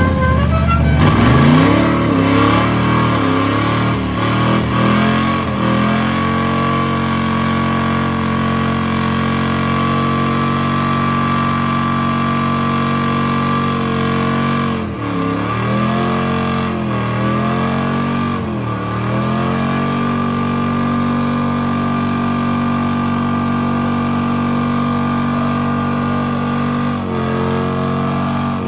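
Car engine revving hard and held at high rpm during a burnout. A few quick blips come at the start, three short drops in revs come about halfway, and it then holds high and steady again.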